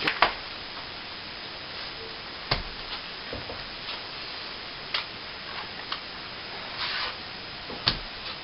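Light, scattered taps and knocks a second or two apart, with a brief scrape near the end, as a batch of CSR Cornice Cement is mixed. A faint steady hiss runs underneath.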